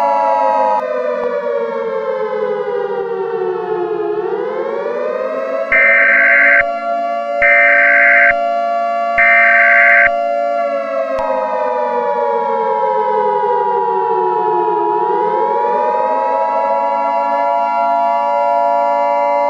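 Civil defense siren wailing in slow cycles: the pitch falls for about four seconds, swings back up and holds, then falls and rises again. About six seconds in, three loud one-second bursts of EAS digital header tones sound over it. A steady electronic tone joins about eleven seconds in.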